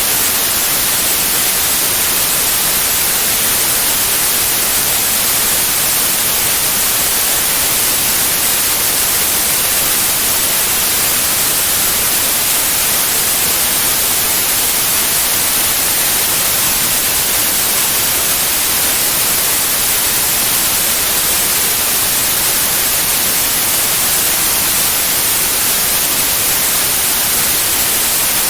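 Steady, even white-noise hiss, unchanging throughout, with its energy strongest in the high frequencies.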